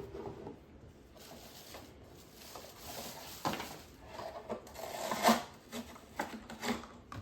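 Rustling and clicking of small toy trucks and their packaging being handled, with a few sharper knocks; the loudest comes about five seconds in.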